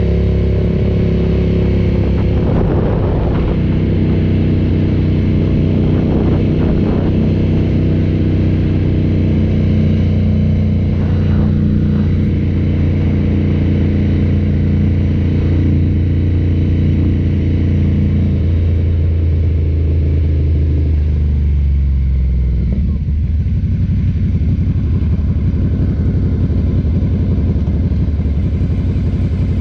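Ducati cafe racer's L-twin engine running steadily under way. About two-thirds of the way through the engine note falls over a few seconds as the bike slows, then runs at a lower, rougher beat.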